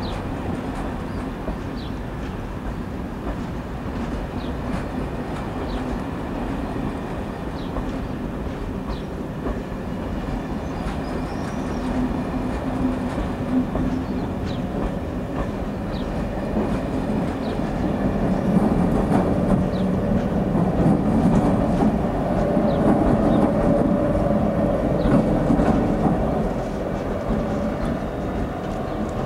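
Corail passenger coaches rolling slowly past on the rails with irregular wheel clicks. From about halfway through, the diesel engines of two BB 75300 locomotives grow louder as the locomotives draw near.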